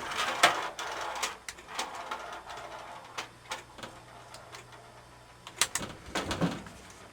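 Handling noise from reassembling a dryer: clatter, clicks and knocks of plastic and metal parts and screws, busiest in the first two seconds, with another cluster of knocks about six seconds in. A faint steady low hum runs through the middle.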